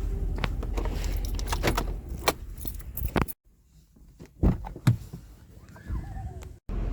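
A run of sharp clicks and clinks, like small hard objects being handled, over a steady low rumble; the sound cuts out abruptly twice.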